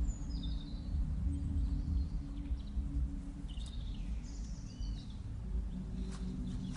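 Small birds giving short, scattered chirps over a steady low rumble.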